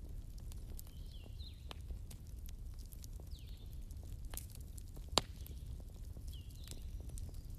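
Campfire burning, with a low rumble under frequent small crackles and one sharper, louder pop about five seconds in. A few faint high sweeping squeaks come and go.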